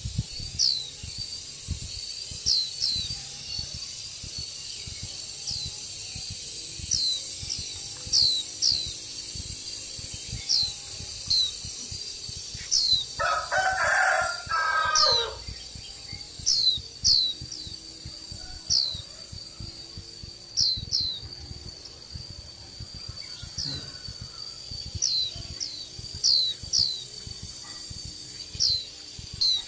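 A bird repeatedly gives short, high chirps that slide downward, at irregular intervals. A rooster crows once, loudly, about 13 seconds in.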